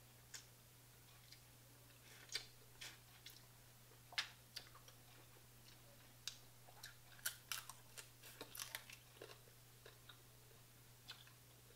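Faint close-up eating of crab legs: chewing with irregular sharp clicks and crunches, coming thickest about two-thirds of the way through.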